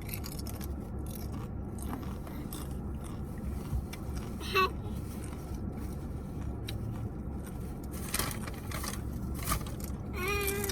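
Scraping and rustling handling noises over a steady low hum inside a parked car. A toddler makes brief babbling sounds about halfway through and again near the end.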